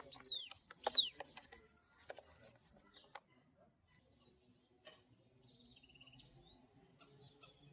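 Southern lapwing (quero-quero) calls: two loud, clear calls falling in pitch within the first second, then only faint scattered chirps.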